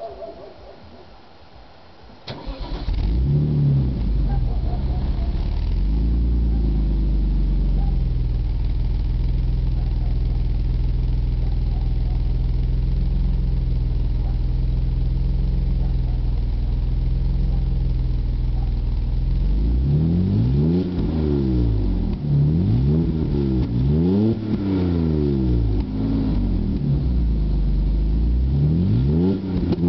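BMW E34's M30B35 3.4-litre straight-six starting about two seconds in, through an exhaust with its catalytic converters removed and the centre silencers kept. It settles to a steady idle, then from about two-thirds of the way through it is revved and let fall back about five times, roughly every two seconds.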